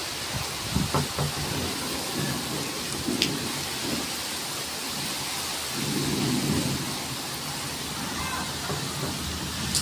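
Heavy rain falling in a steady hiss, with low rumbles of thunder rising and falling, the strongest about six seconds in. A couple of sharp ticks stand out over the rain.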